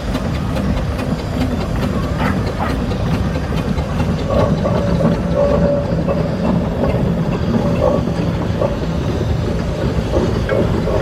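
Steam traction engines driving past in procession: a steady low rumble with hissing steam and scattered clanks and rattles.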